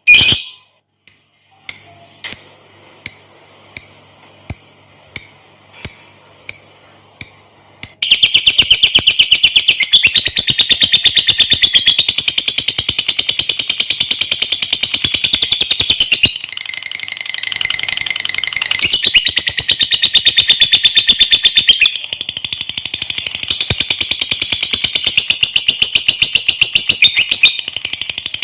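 Lovebird calling: first a run of short, sharp chirps about two-thirds of a second apart, then, about eight seconds in, a long, fast, rattling chatter that keeps going with only brief dips. This is the long 'ngekek' chattering song.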